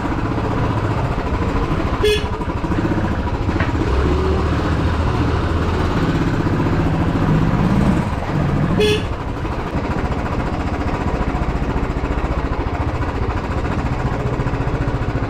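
Royal Enfield motorcycle engine running steadily as the bike is ridden, with an even low beat. Two brief sharp sounds cut through it, about two seconds and nine seconds in.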